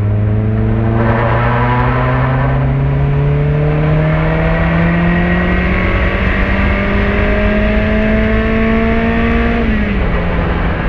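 Turbocharged Mazda MX-5 NB's 1.6-litre four-cylinder, fitted with a large GT3582 turbo, pulling hard under acceleration: the engine note climbs steadily for about nine seconds, then drops near the end.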